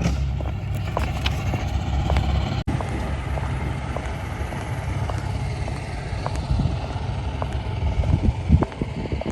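Steady low rumble of a moving vehicle, with scattered light clicks and knocks; the sound cuts abruptly about two and a half seconds in and carries on in the same way after the cut.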